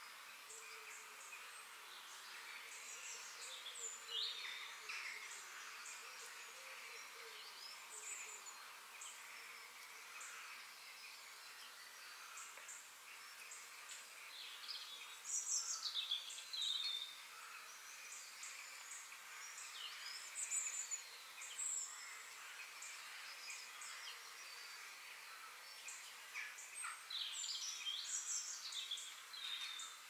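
Several small birds singing and calling: scattered chirps and quick whistled phrases, busiest about halfway through and again near the end, over a faint even hiss.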